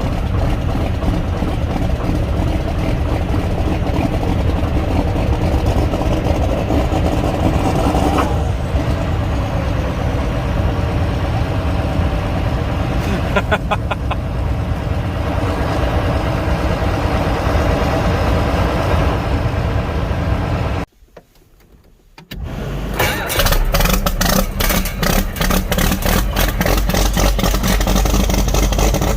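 A vehicle engine running steadily. About twenty-one seconds in the sound drops out for a second or so, then an engine is heard again, louder and deeper, with a fast clatter.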